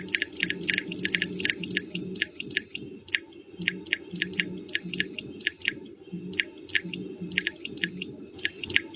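Ear wax crackling and clicking as it is worked loose in the ear canal, a dense run of sharp, irregular clicks, several a second, over a low intermittent hum.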